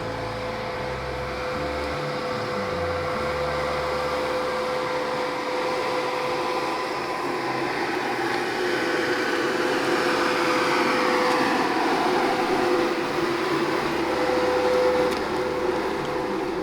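Feller buncher's diesel engine and hydraulics running under load, heard from inside the cab: a steady whine with a rushing noise that swells in the second half.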